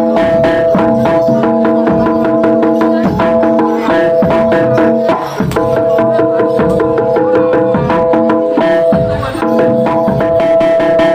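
Loud traditional Indonesian ensemble music: rapid hand-drum strokes over a sustained, held melody line, with a brief break and change of note about five seconds in.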